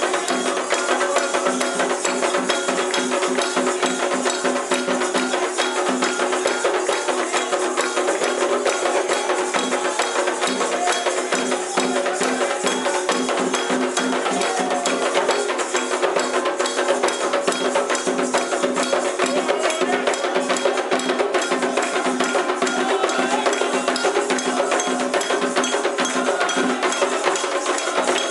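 Candomblé ceremonial percussion music: drums and a clacking wood-block-like instrument playing a steady, dense rhythm, with some held tones over it.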